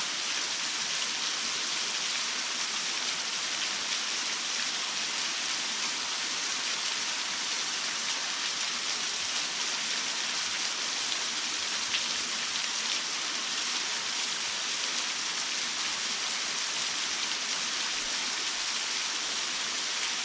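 Waterfall pouring steadily: an even, unbroken hiss of falling and splashing water, with a few faint ticks of droplets.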